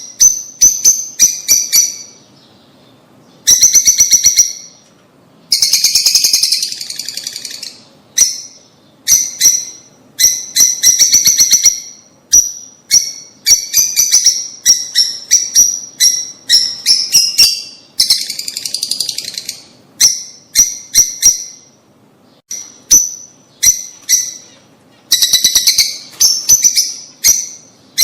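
Lovebirds calling: quick runs of sharp, high-pitched chirps with short pauses between them, broken several times by longer bursts of dense chattering.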